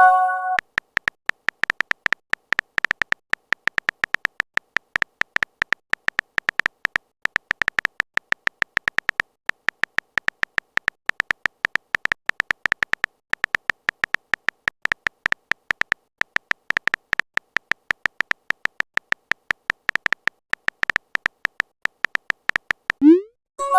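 Chat-app typing sound effect: a rapid, irregular stream of short electronic beeping clicks. It opens with a brief chime of several steady tones, like a message notification.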